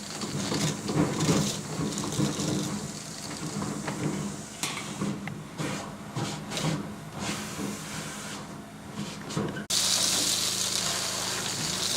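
Duct-cleaning vacuum running with a steady hum and rushing air, with scattered ticks and rattles of debris being drawn through the ductwork. Near the end the sound changes abruptly to a brighter, steady hiss.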